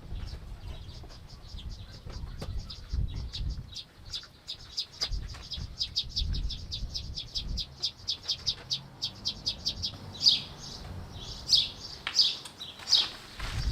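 A small bird singing: a fast, high trill of about six chirps a second, then from about ten seconds in a slower series of louder, falling chirps. A low rumble comes and goes in the first half.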